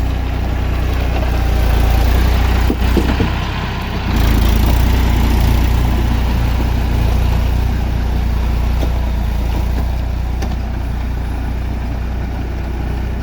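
Eicher tractor's diesel engine running steadily with a deep low throb. It dips briefly about three seconds in, picks up again just after four seconds, then slowly eases off.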